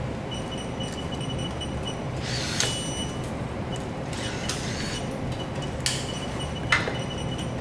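Steady low mechanical hum with a faint high tone that cuts in and out, and a few sharp clanks, the loudest near the end.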